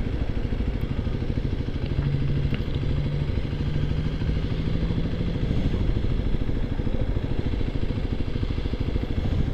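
Motorcycle engine running steadily under way, a dense low pulsing of firing strokes, with the engine note holding level for a few seconds in the middle.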